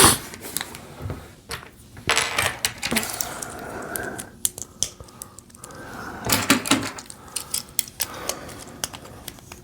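LEGO plastic pieces clicking and tapping as wheels are pressed onto a brick-built train locomotive: a scattered series of sharp small clicks.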